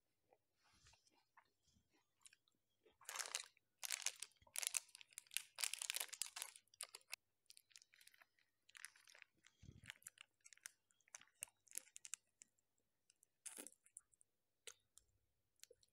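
Close-miked crunching and chewing of ice cream, along with the crinkle of a plastic ice cream wrapper being peeled open. The loudest crackling comes about three to seven seconds in, and short crisp bites and clicks follow.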